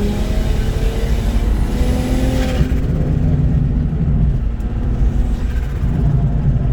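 BMW 335i's N54 inline-six, converted to a single GT35 turbo, accelerating hard, its pitch climbing as the turbo builds boost with a jet-like sound. About two and a half seconds in there is a short rush of air as the throttle closes, and the engine settles to lower, steadier running.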